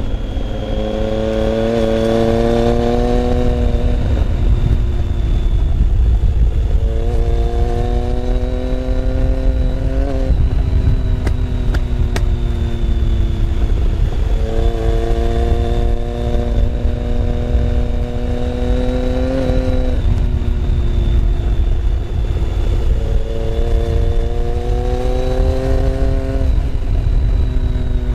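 Motorcycle engine heard from onboard while riding. It climbs slowly in pitch as it accelerates and drops back at each gear change, several times, over heavy wind rumble on the microphone.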